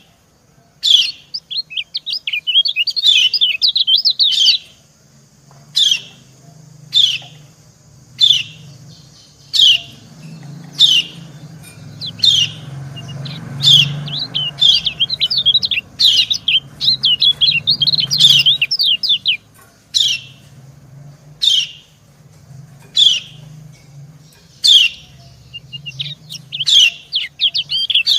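Kecial kuning white-eyes calling: short, sharp 'ciak' calls repeated about once a second, the female's call, alternating with bursts of fast high twittering song, answering as from a male.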